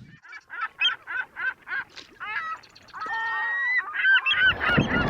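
A rapid series of short, high animal calls, about three a second, with a longer held call about three seconds in. A broad rush of wind noise comes in near the end.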